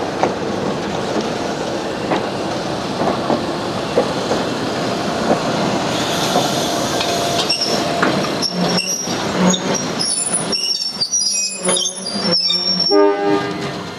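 Chicago, Aurora and Elgin electric interurban cars rolling past, a steady rumble with sharp wheel clicks over the rail joints. In the second half, short broken squeals and hoots come through as the cars pull away, then fade.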